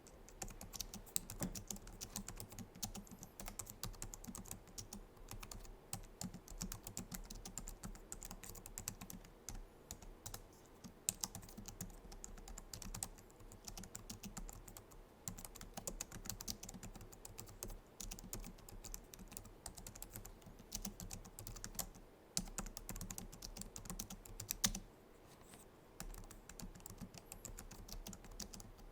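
Continuous typing on a Logitech MX Keys keyboard: rapid, soft clicks of its low-profile scissor-switch keys, with a few short pauses and a couple of louder keystrokes.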